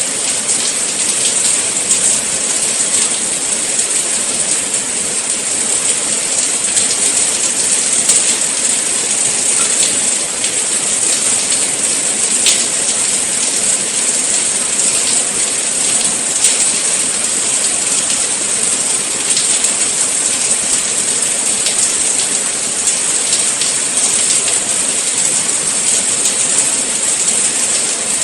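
Steady rain falling, a dense even hiss with a few sharper drop ticks here and there.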